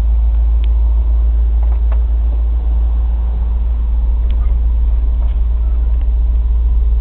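A 1984 Chevy Scottsdale's 5.0-litre 305 V8, carbureted with a four-barrel Rochester Quadrajet, idling steadily.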